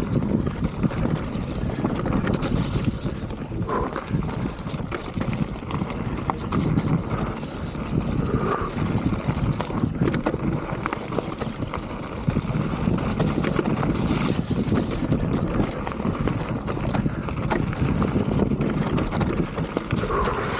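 Wind rushing over the microphone of a mountain bike's camera on a descent, a steady rumble that swells and fades, with scattered knocks and rattles from the bike on the trail.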